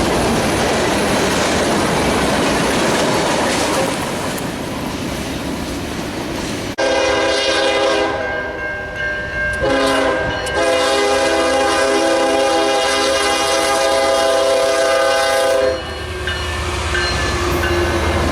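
Freight train running past with rumbling wheels and clickety-clack, then a locomotive air horn sounds a loud multi-note chord about seven seconds in, with a brief break, and holds for several seconds before cutting off, leaving the train's rumble.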